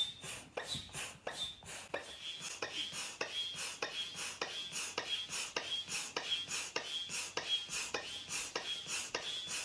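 Air pump inflating an exercise ball: quick, even pump strokes, about three a second, each pushing a hiss of air with a short squeak.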